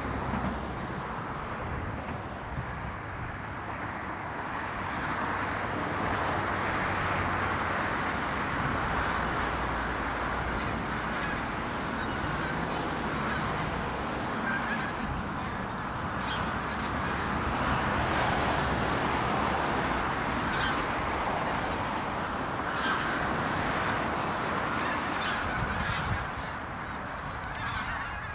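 A large flock of migratory waterbirds calling all at once, a dense, continuous chorus of honking calls, with a low rumble underneath.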